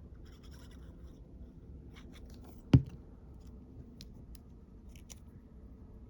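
Paper and small craft tools being handled on a tabletop: soft rustling and scattered light clicks, with one sharp knock a little under three seconds in.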